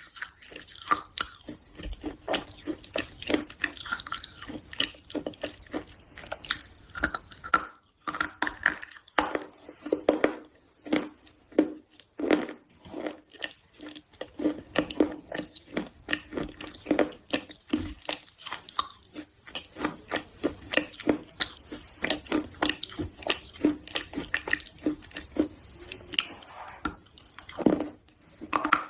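Close-miked chewing and crunching of a soft, crunchy food, dense irregular crackles several times a second with pauses between mouthfuls.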